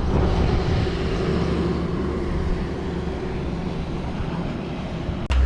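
Motorcycle engine idling with a steady low hum. A sudden click near the end gives way to a louder low rumble.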